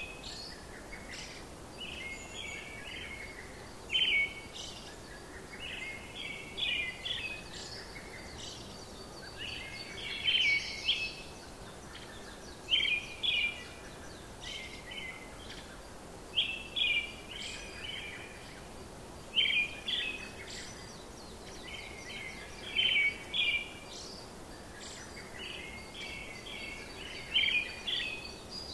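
Birds chirping in short clusters of calls that recur every two to three seconds, over a steady background hiss.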